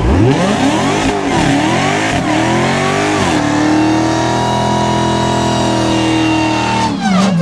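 Car engine revving hard: the pitch rises, dips and climbs again, is held steady at high revs for about three seconds, then drops away near the end.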